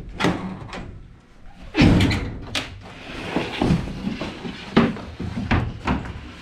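A string of thuds and knocks, loudest about two seconds in, with a scraping rush in between: plywood being unloaded from a vehicle.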